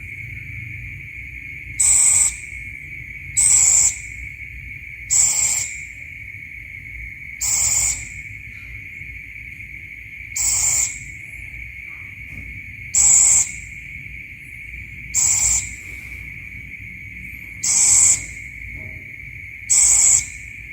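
Scops owl (Otus) calling, a short single note repeated about every two to three seconds, nine times, over a steady high buzz.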